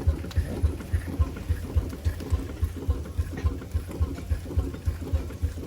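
Single-cylinder steam traction engine running, with steady, even low beats at about three to four a second.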